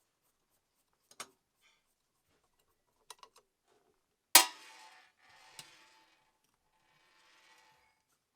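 Scattered sharp clicks and metallic knocks of small metal parts and tools being handled, with one loud clank a little past the middle that rings briefly.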